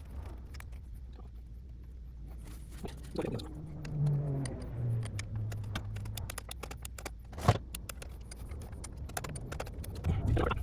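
Light metallic clicks, taps and scrapes of hand tools at a motorcycle's rear brake during brake bleeding, with one sharp click about seven and a half seconds in, over a low steady hum.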